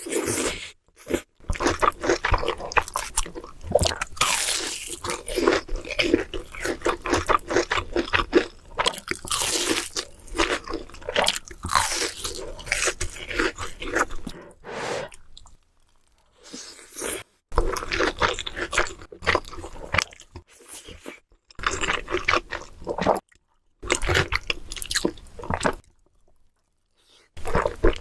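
Close-miked mukbang eating: crunchy bites and chewing in irregular runs, broken by a few short silent pauses.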